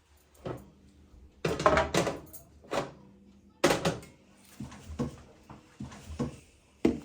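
A run of household knocks and clatters, things being set down and handled, with the loudest about one and a half seconds in and again at about three and a half seconds.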